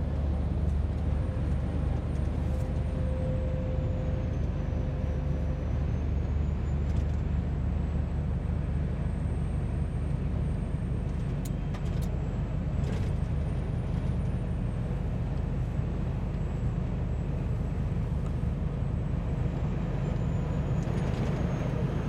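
Scania diesel engine running steadily with a deep, even rumble; a few brief clicks a little past halfway.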